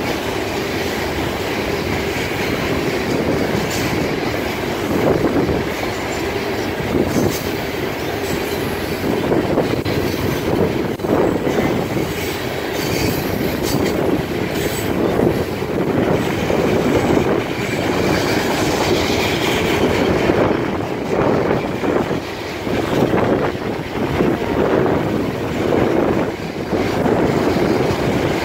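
Florida East Coast Railway freight train's loaded hopper cars rolling past: a steady rumble of steel wheels on rail, with repeated clicking as the wheels cross rail joints.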